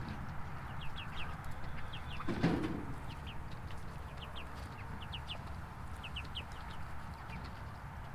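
Chickens clucking, with short high peeps repeating throughout and one louder, lower sound about two and a half seconds in.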